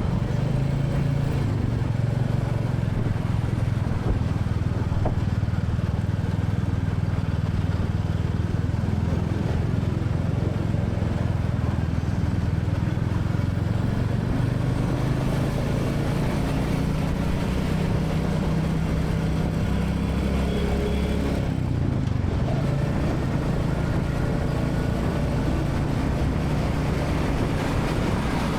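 Royal Enfield Classic 350's single-cylinder engine running steadily under way, its note dipping briefly about three quarters of the way through.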